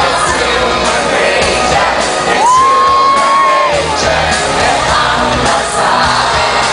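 Stadium concert crowd screaming and cheering over loud amplified pop music with a heavy bass beat. One high voice holds a steady note for over a second about two and a half seconds in.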